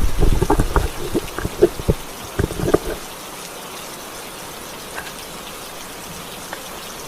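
Steady rain falling, an even hiss. In the first three seconds there are several sharp knocks over a low rumble, which then stop.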